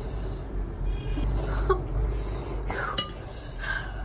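Short breathy breaths and sniffs from a person eating very spicy instant noodles, reacting to the heat, over a steady low hum. One sharp click, like a utensil, comes about three seconds in.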